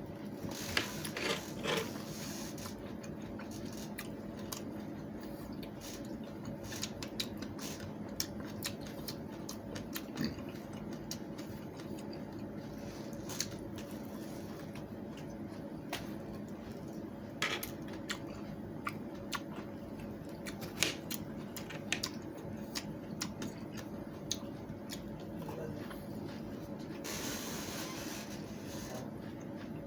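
Irregular small clicks and crisp snaps over a steady low hum, with a short hiss near the start and another about 27 seconds in.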